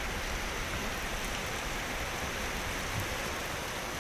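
Heavy rain falling steadily during a thunderstorm, an even hiss with no thunderclap.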